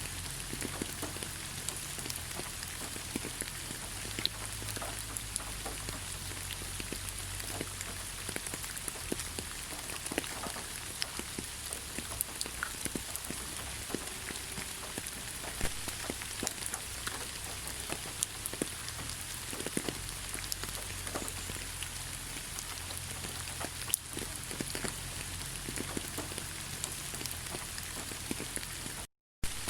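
Steady rain in a forest: an even hiss with many separate drops ticking through it. The sound cuts out completely for a split second near the end.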